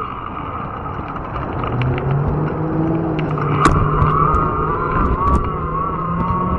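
Fat-tire electric bike riding over rough ground: a steady motor whine over a low rumble of tyres and wind, with scattered sharp clicks and knocks from bumps and brush.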